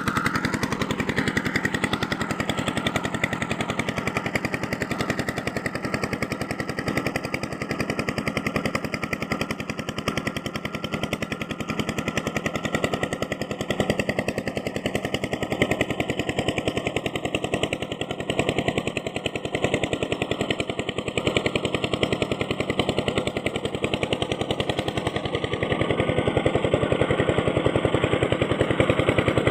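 A small machine running steadily with a rapid, even clatter.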